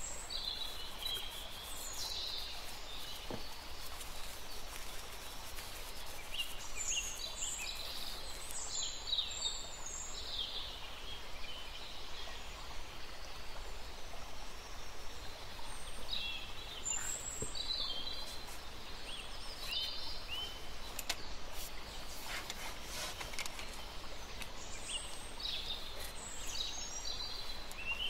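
Small birds chirping in several clusters of quick, high calls a few seconds apart, over a steady background hiss.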